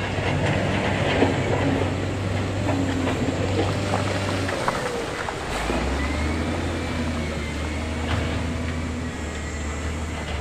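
Diesel engine of heavy earthmoving machinery running steadily, its pitch dropping slightly about halfway, with scattered metallic clanks and scraping and a thin metallic squeal in the second half.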